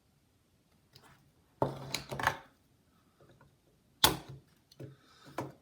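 Sharp clicks and knocks of small hand tools being handled at a soldering bench while old solder is worked off a motherboard's capacitor joints. There is a cluster of clicks in the first half and a single loud click about four seconds in, followed by a few smaller ones.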